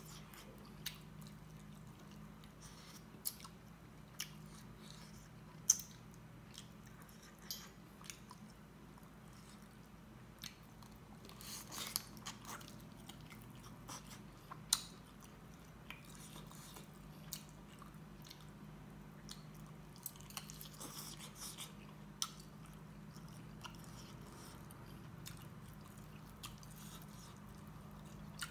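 Close-up mouth sounds of a man chewing and biting pieces of local chicken eaten by hand: irregular wet smacks and small crunches, roughly one every second or two.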